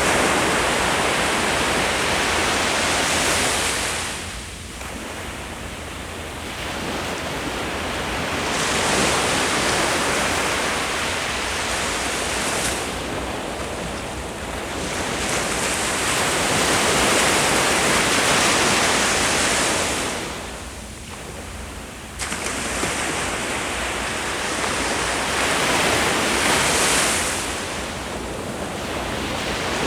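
Ocean surf: waves breaking and washing up the shore, the rush swelling and ebbing in slow cycles. There are two lulls, one a few seconds in and one around twenty seconds in, and the second ends with a wave breaking suddenly.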